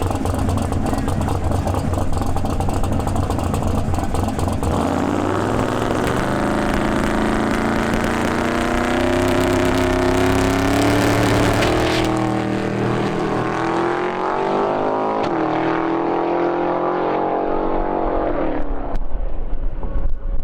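Twin-turbo big-block Chevy V8 in a 1956 Chevy drag car making a pass. The engine rumbles steadily at first, then from about five seconds in it pulls hard with a rising pitch. The sharp top of the sound falls away about twelve seconds in, when the car comes out of it just past the eighth mile, and the engine note carries on lower until near the end.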